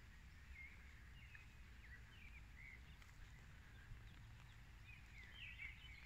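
Near silence with faint, scattered bird chirps, a few more coming together near the end.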